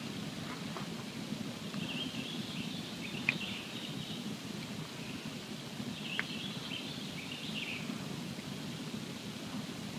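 Wood campfire burning with a steady low rumble and two sharp crackling pops, about three and six seconds in. Two spells of faint high-pitched fluttering sound run over it.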